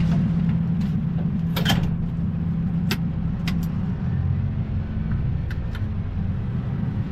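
Heavy truck's diesel engine running steadily with a low hum, with a few sharp clicks or rattles over it, the loudest about 1.7 and 3 seconds in.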